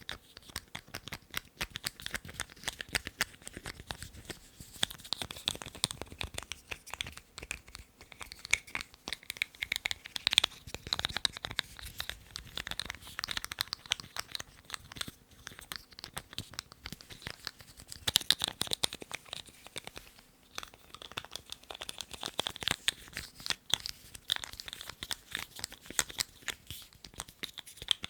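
Lids being handled close to the microphone: a dense, continuous run of quick clicks, taps and scratches with a crinkling texture.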